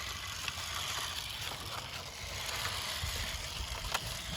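Toy double-decker bus being handled and rolled, a steady rolling rumble and hiss with a few light clicks; the rumble stops right at the end.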